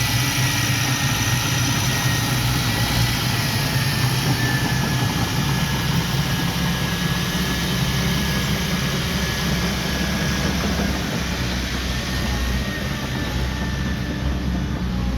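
Heavy machine's diesel engine running steadily with a low rumble and a faint thin whine above it.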